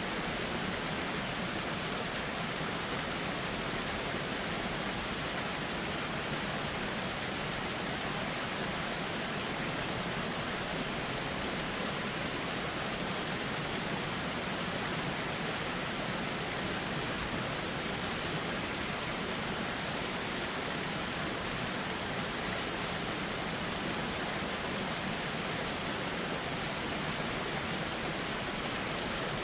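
River water flowing steadily: an even, unchanging rush of water.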